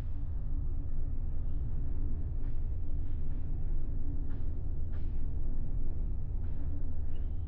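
Ferry's engines running, a steady low rumble with a faint hum carried through the ship's structure into the cabin. A few faint light clicks sound over it.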